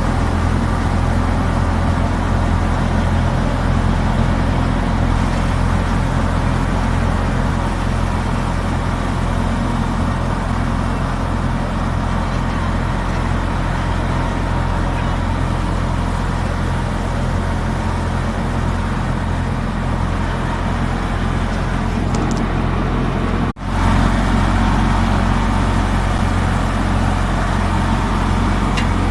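Tractor-driven millet thresher running steadily: a constant low engine drone with an even machine noise over it. The sound drops out for a split second about 23 seconds in.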